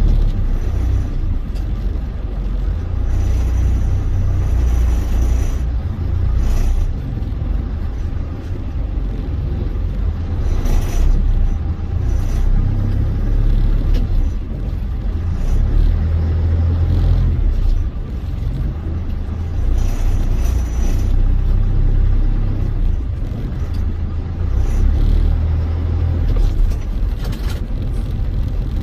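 Steady, heavy low rumble of a moving vehicle's engine, heard from on board.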